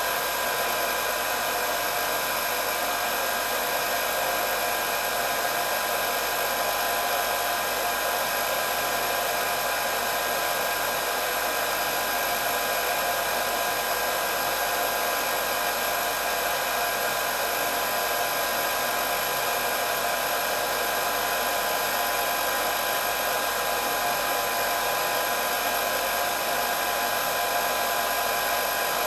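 Electric hair dryer running steadily, a constant whirr of blowing air with a high motor whine through it.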